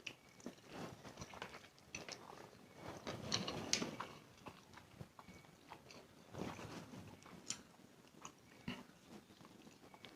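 A person chewing and eating spicy instant noodles, with irregular wet mouth smacks and small clicks; the loudest stretch of eating comes about three seconds in.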